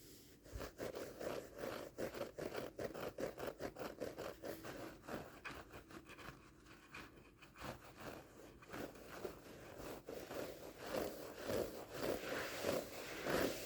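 Scratching and scrubbing strokes on a carpet rug's pile, fast and repeated. They ease off for a few seconds in the middle, then come back harder near the end.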